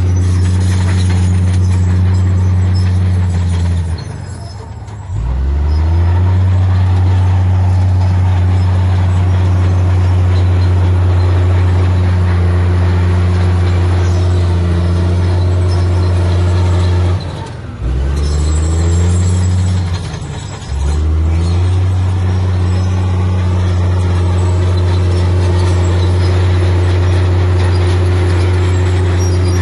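Heavy diesel engine of earthmoving equipment running steadily and loud. Its note drops and then climbs back up three times, about four seconds in and twice more near the middle.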